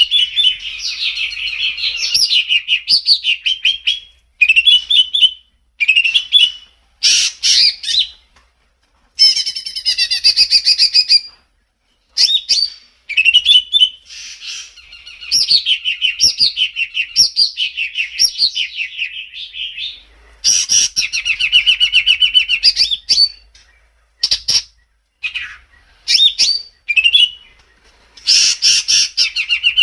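Songbird singing loud, varied phrases of rapid chirps and trills, broken by short pauses of near silence between phrases.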